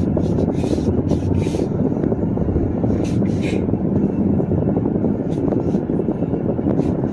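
Car cabin noise while driving: a steady low rumble of engine and road, with a few scattered short clicks in the first half.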